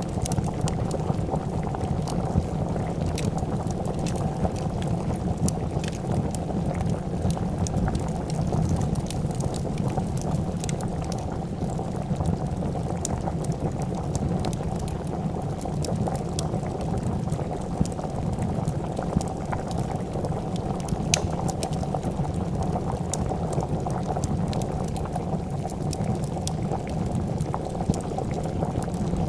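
A pot of soup at a steady boil, bubbling continuously, with scattered small crackles from a wood fire.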